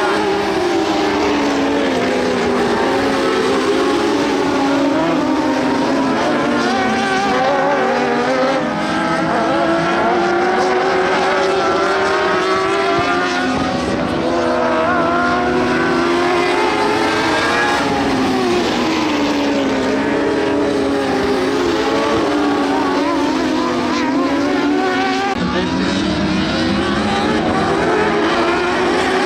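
A pack of dwarf race cars running laps, their motorcycle engines making several overlapping notes that rise and fall again and again as the cars accelerate and lift off around the track.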